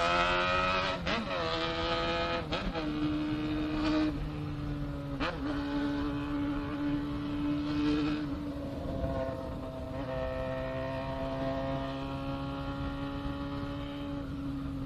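Honda Hornet motorcycle engine accelerating up through the gears. The pitch climbs and drops back with each of about four quick upshifts in the first five seconds, then holds steady at a cruise, easing slightly lower near the end.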